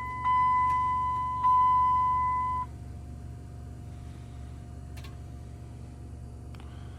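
A steady, high-pitched electronic warning tone that cuts off suddenly about two and a half seconds in. After it there is only a low steady hum with a couple of faint clicks.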